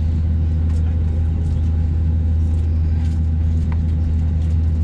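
Steady low drone inside the cabin of an Airbus A320neo on the ground, unchanging in pitch and level, with a few faint ticks over it.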